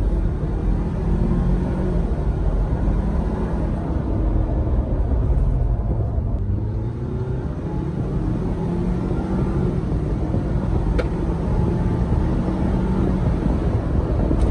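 Ford Bronco 2.3L turbocharged four-cylinder engine breathing through an S&B cold air intake, its revs rising, dropping off partway through, then climbing again.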